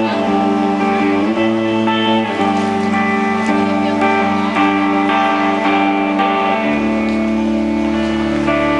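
Live folk-rock band playing an instrumental passage, with guitars ringing out sustained chords. A deep bass note comes in about two thirds of the way through.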